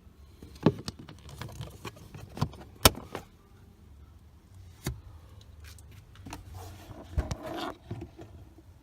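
Sharp clicks and knocks of plastic car-interior parts being handled, about four louder ones a couple of seconds apart, with rustling near the end, as the cabin air filter and its cover are worked in and out by hand.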